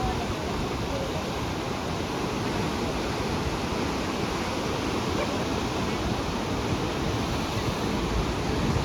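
Ocean surf breaking and washing up a beach: a steady rush of wave noise.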